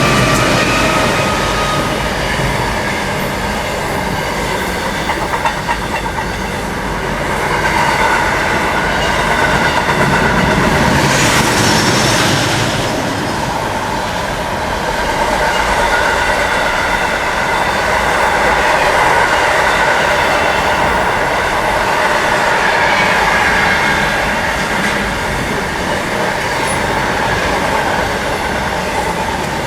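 Long freight train rolling past steadily, its wagon wheels clattering over the rails with steady high-pitched wheel squeal, and a brief brighter rush about eleven seconds in.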